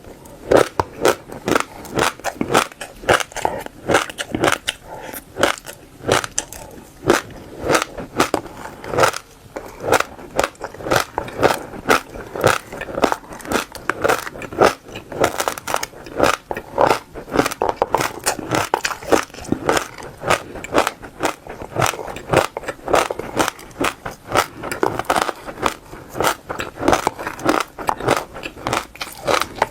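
Close-up crunching of seeds being bitten and chewed: a quick, continuous run of sharp cracks, several a second, as the seeds break between the teeth.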